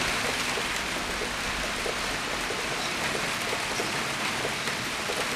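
Steady rain falling, a continuous even hiss of many small drops pattering on surfaces.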